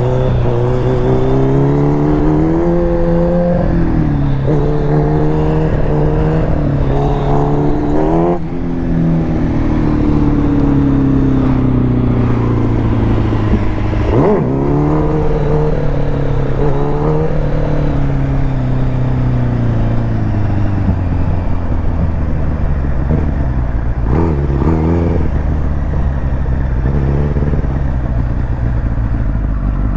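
Motorcycle engine under a rider's throttle, the revs rising and falling again and again, with a few quick chops and blips of the throttle.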